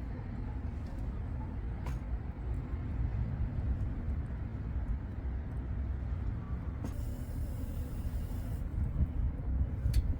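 Wind buffeting the microphone: a steady low rumble, with two sharp clicks, one about two seconds in and one near the end, and a stretch of high hiss in the second half.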